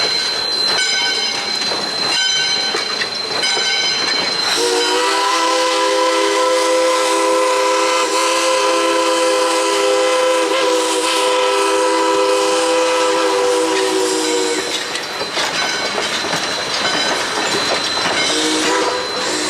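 Steam locomotive whistle blowing one long blast of about ten seconds, starting about four seconds in, with several notes sounding together as a chime. It sounds again near the end. Before the blast come regular ringing strikes, a little more than one a second.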